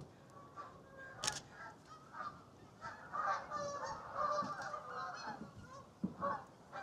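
A flock of geese honking, scattered calls at first and then many overlapping calls for a couple of seconds in the middle. A single sharp click about a second in.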